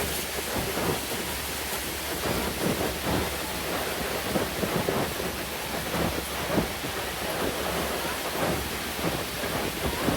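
Niagara Falls: the steady rushing noise of a great mass of falling water.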